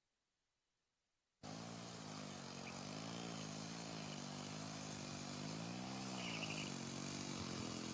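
Small two-stroke Peugeot 103 moped engine, fitted in a BMX frame, running after a second and a half of silence, its revs rising and falling gently.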